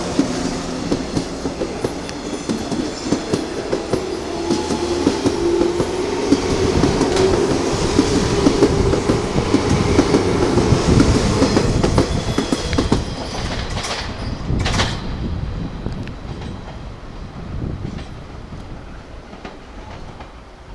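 JR 185 series electric train pulling out and gathering speed, its wheels clacking over the rail joints. Two sharp clacks come a little past two-thirds of the way through, then the sound fades as the train draws away.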